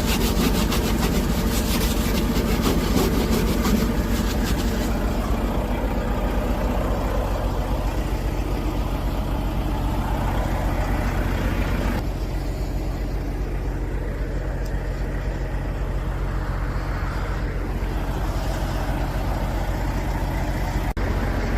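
Vehicle engine and road noise heard from inside the cab: a steady low drone. A rapid ticking runs over it for the first few seconds.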